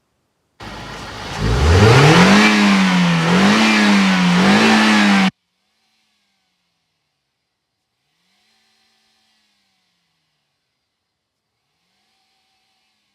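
Toyota Corolla XLi engine revved hard: its pitch climbs sharply from idle to high revs, holds there with a few small dips, then cuts off abruptly after about four seconds.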